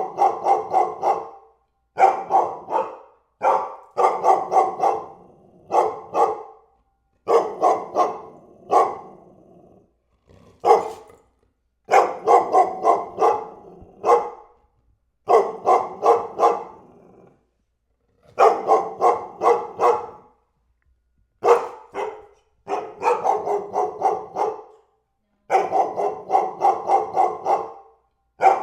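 A dog barking over and over in rapid volleys of several barks each, about four to five barks a second, with short pauses of about a second between volleys.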